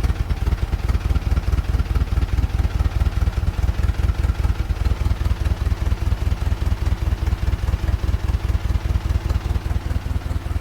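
Freshly rebuilt GAZ-MM four-cylinder side-valve (flathead) engine idling on its first run, a steady, even pulsing beat.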